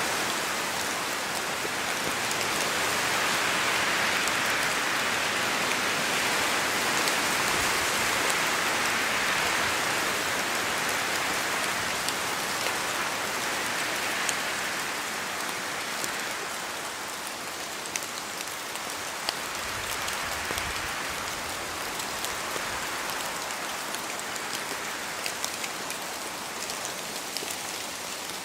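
Rain falling through forest trees with wind: a dense, steady hiss of rain that swells over the first half and eases after about sixteen seconds. Scattered drops fall from the trees, tapping sharply here and there, more often near the end.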